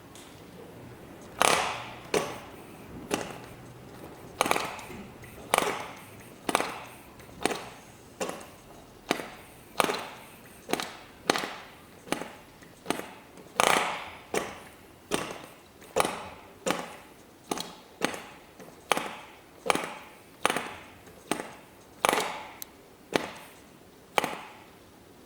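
ENYA 09 III model glow engine being flipped over by its propeller again and again. More than thirty sharp snaps come slightly irregularly at about one to two a second, and the engine never catches: a sign of its leaking compression.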